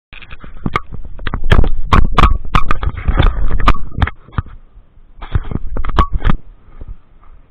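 A rapid, irregular series of loud knocks and thumps. They pause about four seconds in and come back briefly around five to six seconds.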